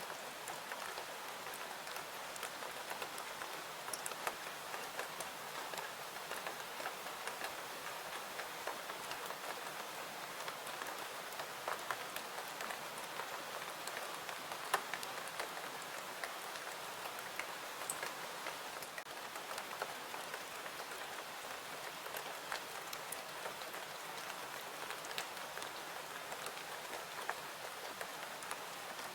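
Steady rain falling, an even hiss, with scattered sharp clicks over it. One click, about fifteen seconds in, is louder than the rest.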